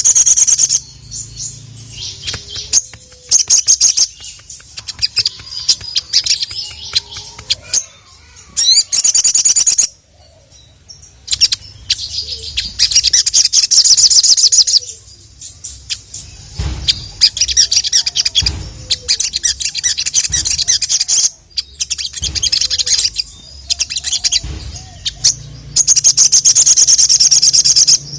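A ruby-cheeked sunbird (sogok ontong) sings loudly in bursts of rapid, high, chattering trills a few seconds long, separated by short pauses.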